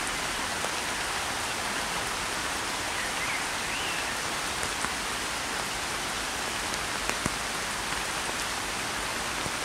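Steady rain falling on a pond's water surface: an even hiss of drops with a few single louder drops now and then.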